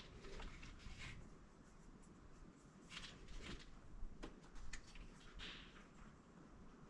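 Faint, scattered small scrapes and clicks of something being handled, over quiet room tone.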